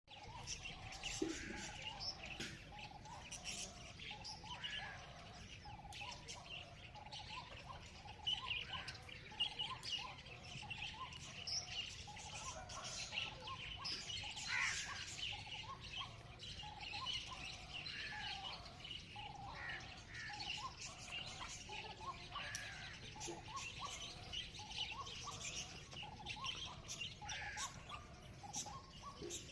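Several songbirds chirping and calling at once, with many high chirps over lower repeated notes. A faint, steady low background noise lies underneath.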